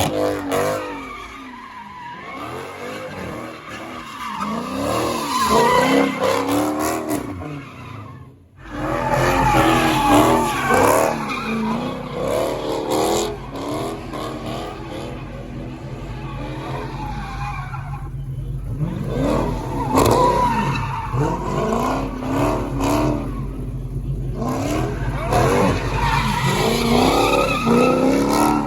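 Car engines revving up and down hard with tyres squealing and skidding, as cars slide. The sound cuts out briefly about eight seconds in.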